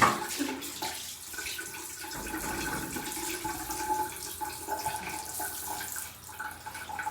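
Shower water running steadily and spraying onto a cat being washed, with a sharp knock right at the start.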